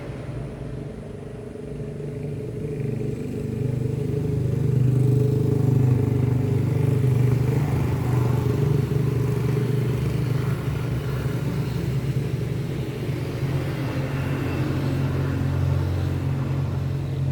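A motor vehicle engine running at a steady low hum, growing louder over the first few seconds and then holding steady.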